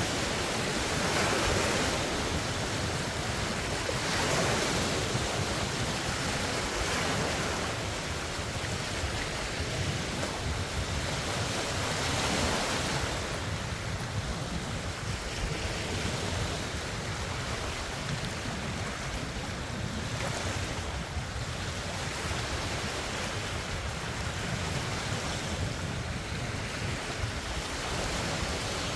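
Large wind-driven lake waves washing and breaking on the shore, surging every couple of seconds, with wind buffeting the phone's microphone.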